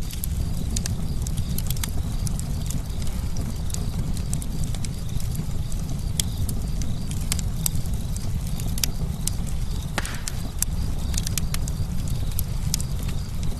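Campfire crackling: frequent sharp, irregular pops and snaps over a steady low rumble of burning wood, with a short hiss about ten seconds in.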